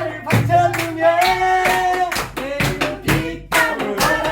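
Voices singing Korean traditional song in long, wavering held notes, with hands clapping a steady beat about twice a second.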